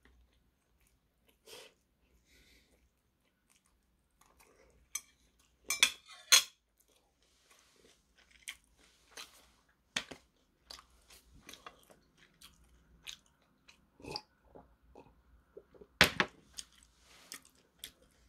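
Close-up chewing of a pan-fried dumpling: wet mouth sounds and crunching in short irregular clicks and smacks, with a few sharper, louder ones about six seconds in and again near the end.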